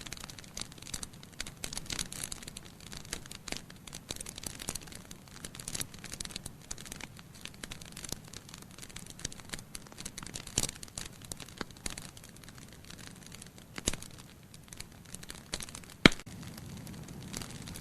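Wood fire burning in a fireplace: logs crackling with a dense run of small snaps over a soft low rush of flame, and a few louder pops in the second half.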